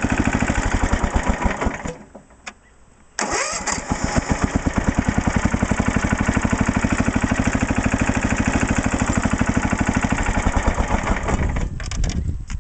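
16 hp Tecumseh single-cylinder engine on a Sears garden tractor running with an even firing beat, cutting out about two seconds in and starting again about a second later, catching at once and running steadily. Its level drops near the end.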